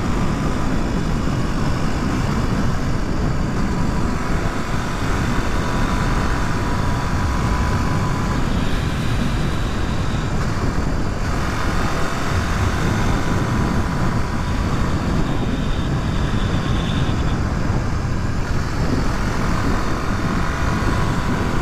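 Suzuki DR250S single-cylinder four-stroke engine running steadily at cruising speed, with a constant rush of wind and road noise.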